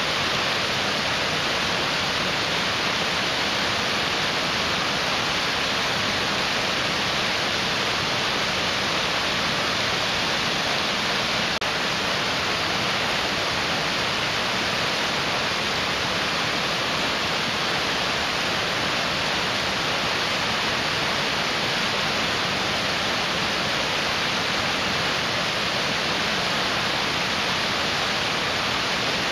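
Mountain stream rushing over rocks: a steady, even roar of fast water that does not change.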